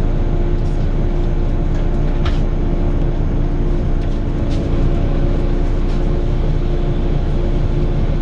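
Volvo B9TL double-decker bus heard from inside the passenger saloon while under way: a steady low drone from the engine and running gear, with a held hum over it and a few light rattles from the body.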